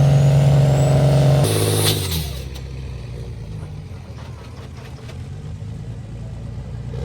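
11-litre Cummins diesel of an ERF truck-based pulling machine running hard at a steady held pitch. About a second and a half in it lets off with a short hiss of air, then settles to a much quieter low run.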